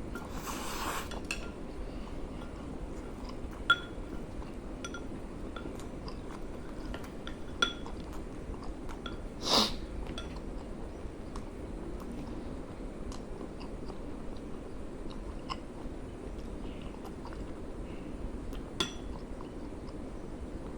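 A person eating instant noodles: quiet chewing, with a few sharp clinks of a utensil against the bowl and a short rushing sound about ten seconds in.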